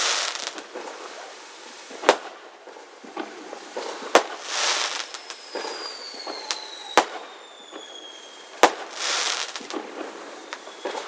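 Fireworks going off: sharp bangs about every two seconds, several followed by a crackling hiss, with two falling whistles in the middle.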